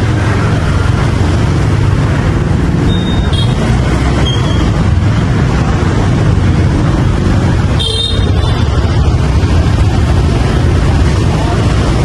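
Street traffic heard from a moving motorbike: a steady, loud rumble of engines, with short high horn toots about three and four and a half seconds in and a louder honk about eight seconds in.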